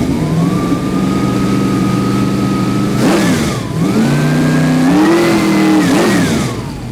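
Big-block Chevrolet 489 cubic inch V8 with a hydraulic roller cam, revved up and held at high revs twice. The revs drop back briefly about halfway through and fall off near the end.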